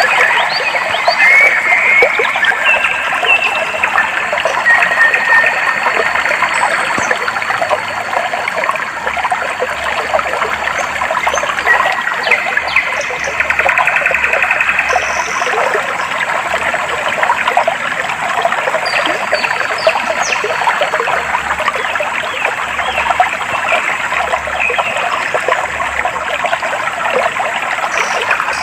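A clear stream of water babbling and splashing steadily, with birds chirping and calling in short phrases over it.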